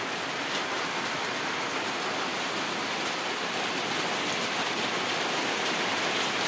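Heavy tropical rain falling steadily on wet ground and puddles, a dense, even hiss that grows a little louder about halfway through.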